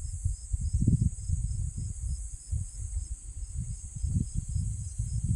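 Wind buffeting the microphone in irregular low rumbles, over a steady high insect buzz and a cricket's regular, evenly spaced chirping. The rumble drops away near the end, leaving the insects.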